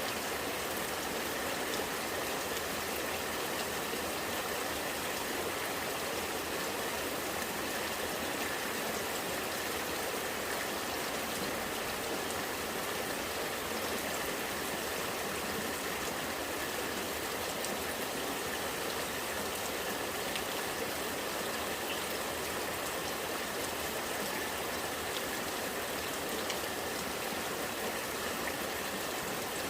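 Rainwater running and gurgling in a steady flow, with rain falling.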